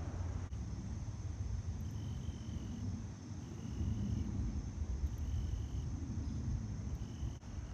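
Outdoor park ambience: a steady low rumble on the microphone, with a short high call near 3 kHz repeating about every second and a half over a faint steady high insect-like drone.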